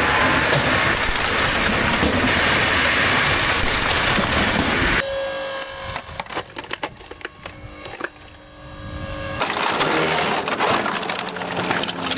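Large press crushing wood: dense crackling and splintering, which thins to scattered sharp cracks about five seconds in and then builds back to loud crackling near the end.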